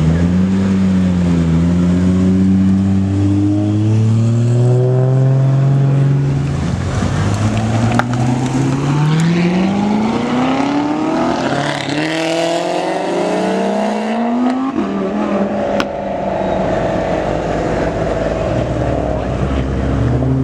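Sports car engines accelerating, rising in pitch through several successive pulls, then holding at a higher steady pitch for the last few seconds.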